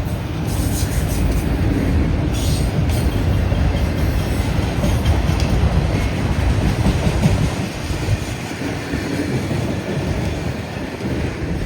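Freight train of auto-rack cars rolling past close by: a steady rumble with wheel clatter on the rails, and brief higher squeals in the first few seconds.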